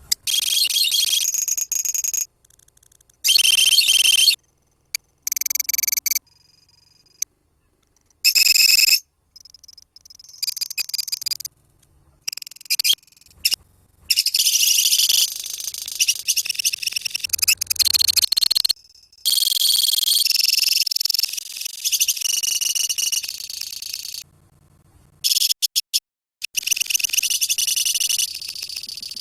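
Colony of lovebirds chattering with shrill, high-pitched calls. The calls come in bursts of one to four seconds that start and stop abruptly, with short silent gaps between them.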